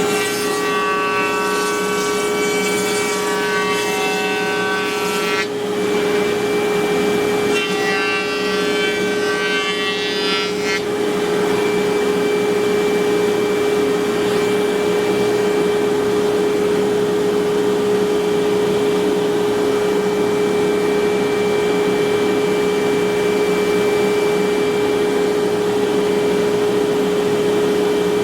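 CNC router spindle running with a steady hum, with two stretches of the bit cutting wood in the first eleven seconds or so, the second ending about eleven seconds in.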